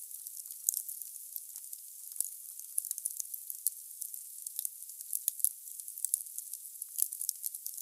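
Wood fire burning in a fireplace: logs crackling with frequent sharp pops over a steady, thin, high hiss.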